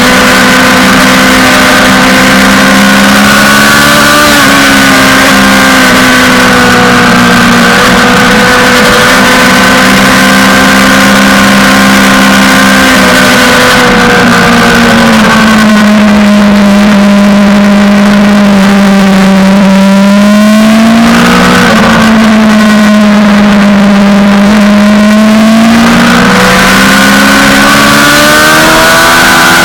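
Suzuki GSX-R600 inline-four sportbike engine running hard at high revs, with a loud rushing hiss over it. The engine note drops and climbs again a few times in the second half, and the hiss eases about halfway through.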